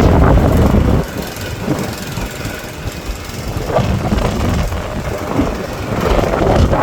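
Storm wind gusting and buffeting the microphone with a low rumble, strongest in the first second and building again near the end.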